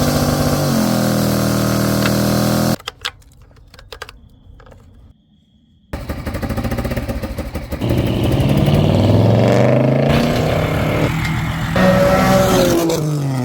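Engine revving, its pitch rising and falling; it cuts off suddenly about three seconds in, a few clicks follow, and the revving starts again about six seconds in.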